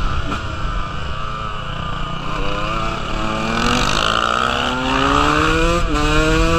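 KTM 125 two-stroke dirt bike engine under way, with wind rush: the revs fall as the throttle is eased, then climb steadily through a gear, drop sharply at an upshift about six seconds in, and begin climbing again.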